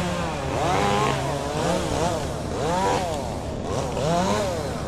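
Chainsaw being revved up and eased off about once a second, the pitch rising and falling each time, over a steady engine hum.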